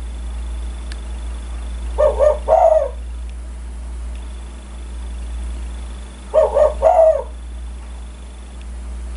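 Spotted dove cooing: two three-note coo phrases about four seconds apart, over a steady low hum.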